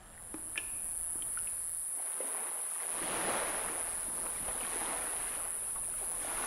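Water lapping and sloshing around a kayak, swelling about three seconds in and again near the end, with a steady high-pitched hiss over it and a few faint clicks at the start.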